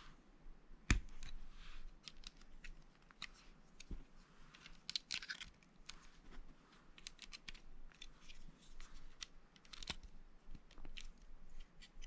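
Small plastic Lego pieces being handled and pressed together: a run of irregular sharp clicks and light rattling, with one louder knock about a second in and brief rustling of pieces around the middle and near the end.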